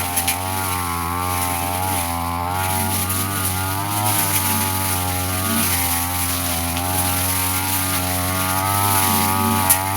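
Petrol brush cutter running at high speed, its engine note dipping and recovering repeatedly as the spinning blade bites into grass. There are sharp ticks at the very start and near the end, as the blade strikes something hard.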